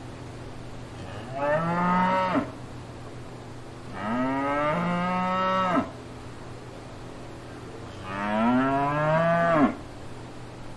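Cow mooing three times, each moo lasting one to two seconds and dropping in pitch as it ends.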